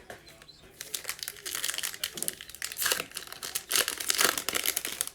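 Crinkly foil wrapper of a pack of Mosaic basketball trading cards being torn open and crumpled by hand. The crackling starts just under a second in and runs in dense, uneven crinkles for about four seconds.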